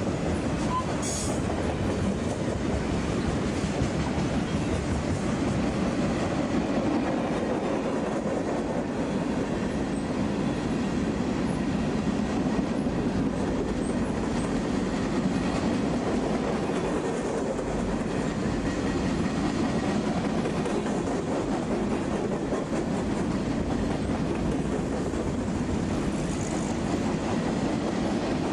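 Freight train of boxcars and covered hopper cars rolling past: a steady rumble and rattle of steel wheels on the rails.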